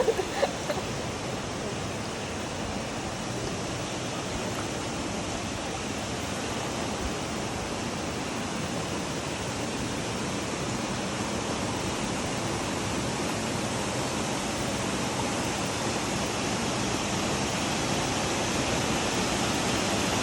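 Steady rushing water, an even hiss that slowly grows louder.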